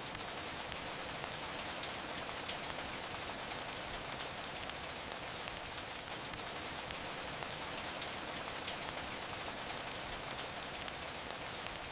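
Steady rain hiss, with scattered sharp crackles and pops from a wood fire; the two loudest pops come about a second in and about seven seconds in.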